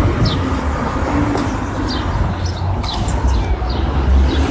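City street ambience: a steady low rumble of traffic, with small birds giving short, high, falling chirps over and over on top of it.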